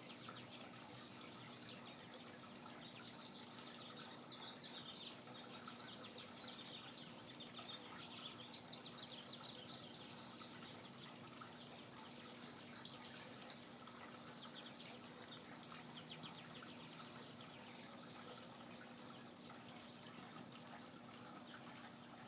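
Faint, busy chirping and twittering of small backyard birds, in rapid runs of high notes that come thickest in the first half, over a steady low hum.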